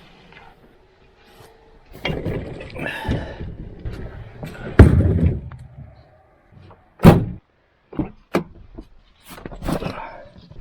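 A series of knocks and thumps, the loudest a heavy slam about five seconds in, followed by several sharper separate knocks.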